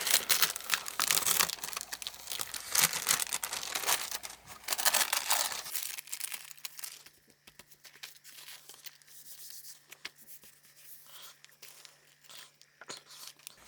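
Paper crackling and tearing as a glue-repaired casebound book is opened and its pages handled, the sound of stiffened, glued paper coming apart. The noise dies away about six seconds in, leaving only faint small clicks.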